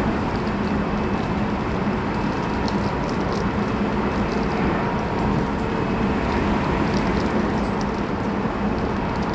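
Running noise inside a Tobu 20400-series electric train's motor car at a steady speed between stations. Wheels rumble on the rail under a constant low hum, with no rise or fall in pitch.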